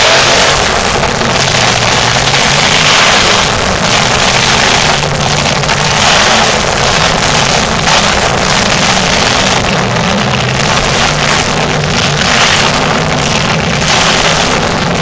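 Equalizer monster truck's engine running loud and continuously, its pitch wavering slightly without long revs or stops.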